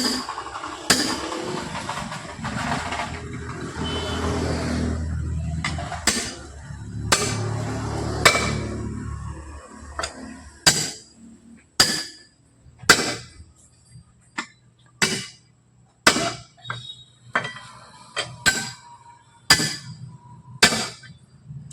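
Hammer blows on a steel truck wheel rim, sharp ringing strikes about one a second. A low rumble runs under the first half and stops about ten seconds in.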